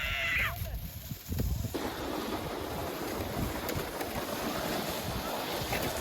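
A sled sliding over an ice sheet: a steady, scraping hiss that starts suddenly about two seconds in and holds. A person's short shout trails off right at the start.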